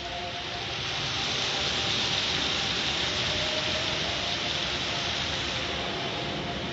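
Car wash machinery running: a steady hiss that swells slightly in the first couple of seconds, over a few faint steady hums.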